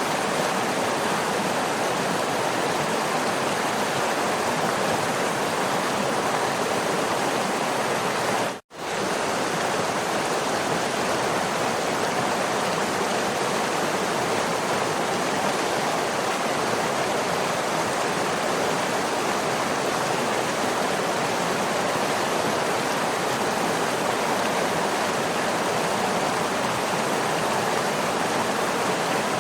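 Steady, even rush of falling water from a waterfall. About nine seconds in, the sound briefly cuts out for a split second, then comes straight back.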